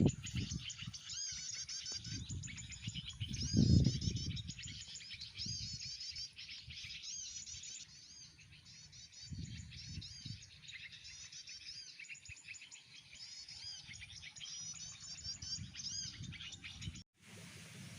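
Small birds chirping and twittering in fast repeated high-pitched phrases, used as a lure for birdlime-stick trapping. Low thumps come at the start and about four seconds in, and the sound cuts out suddenly about a second before the end.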